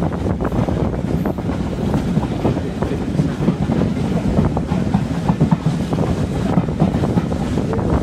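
Steam-hauled heritage train running along the line, heard from an open carriage window: a steady rumble with frequent irregular clicks of the wheels on the track, and wind rushing over the microphone.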